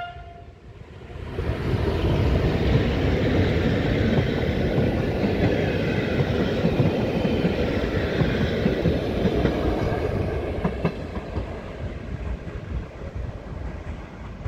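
Passenger train hauled by an EP07 electric locomotive passing close by: the rumble of wheels on rail swells about a second in, with clickety-clack over the rail joints as the coaches go past, and eases off near the end.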